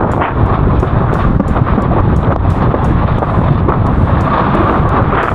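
Loud, steady wind buffeting the microphone over the rush of water, as a windsurf board planes at speed in high wind.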